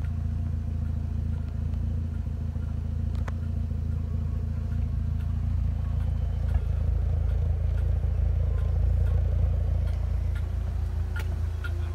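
Mitsubishi Lancer Evolution X's turbocharged 2.0-litre four-cylinder engine idling steadily, heard from behind the car at the exhaust as a low drone.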